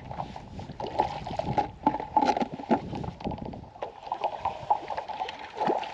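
Irregular knocks and clatter from a fishing kayak, mixed with water noise.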